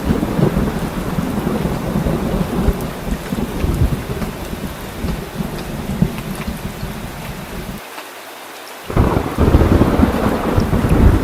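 Heavy rain pouring, with a continuous low rumble of thunder. About eight seconds in the rumble cuts out abruptly for about a second, leaving only the rain, then comes back loudly.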